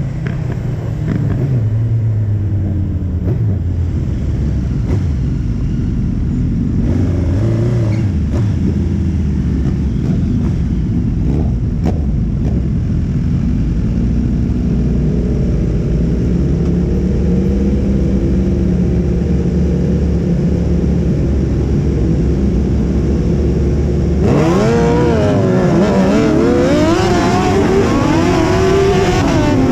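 Suzuki Hayabusa streetfighter's inline-four engine heard onboard while riding, running fairly steadily with some pitch changes. Near the end it gets louder and revs up and down several times in quick succession.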